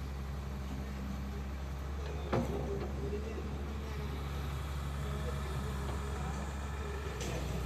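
Heavy diesel machine engine running steadily, with a sharp knock a little over two seconds in and another near the end.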